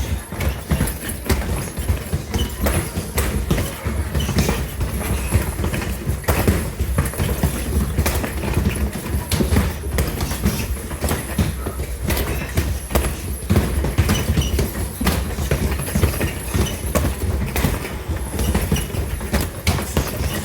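A group of karateka drilling: a dense, irregular run of thuds and slaps from bare feet stepping and stamping on the dojo floor and from strikes landing.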